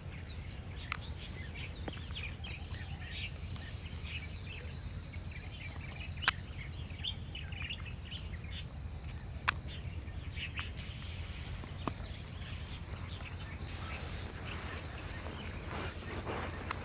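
Small birds chirping in many short, quick calls over a steady low rumble, with three sharp clicks a few seconds apart in the middle.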